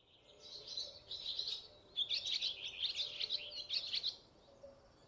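Small birds chirping and twittering in quick, high notes, busiest from about two seconds in and thinning out near the end.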